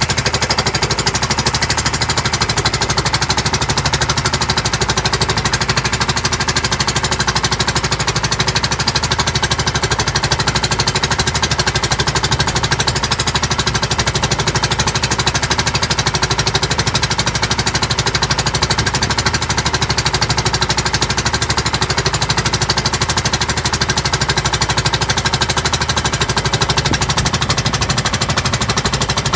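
Small boat's engine running steadily at speed, a fast, even pulsing beat.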